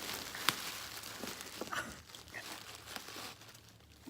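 Bubble wrap and plastic packing being handled and pulled out of a cardboard box: crinkling and rustling with scattered crackles, fading toward the end.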